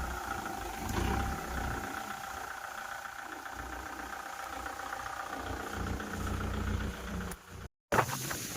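Kubota MU4501 tractor's diesel engine running steadily at idle, its low rumble swelling and easing. Near the end the sound cuts out for an instant and comes back with a sharp clack.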